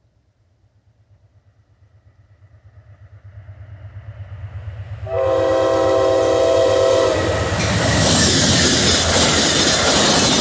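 Amtrak GE P42DC Genesis diesel locomotive approaching on the mainline: its rumble grows, then its multi-chime air horn sounds one blast of about two seconds about five seconds in, and the locomotive passes close by with loud engine and wheel noise.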